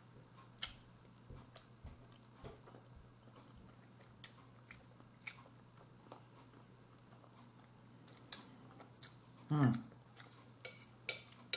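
Close-miked chewing and lip smacks of someone eating soft food with a fork, as scattered small clicks. About nine and a half seconds in, a short hummed "mm", followed by a fork clicking against the plate several times near the end.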